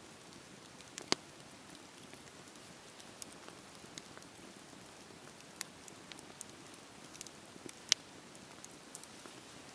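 Wood fire crackling in a fireplace: scattered sharp pops and small ticks over a soft steady hiss, with the two loudest pops about a second in and late on.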